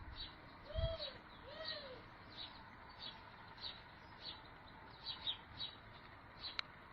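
Birds calling: a series of short, high chirps repeating over a faint hiss, with two short, lower arching calls about a second in.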